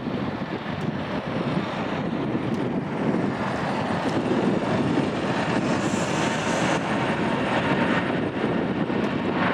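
Boeing 787-10 jet airliner on its takeoff roll, the engines' roar growing steadily louder.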